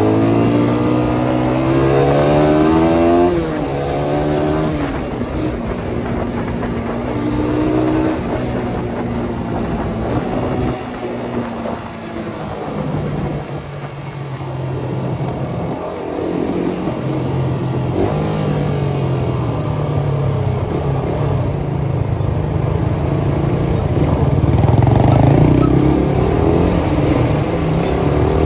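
Suzuki Satria FU 150's single-cylinder four-stroke engine running through its CBU Thailand exhaust, its pitch rising in several climbs and dropping back between them, loudest about 25 seconds in.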